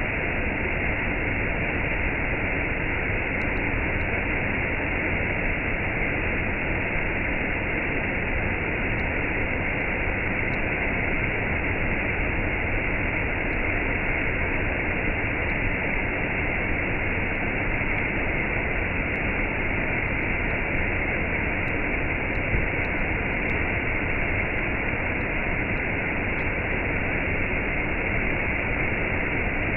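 Waterfall and cascade: water falling and rushing, a steady unbroken noise.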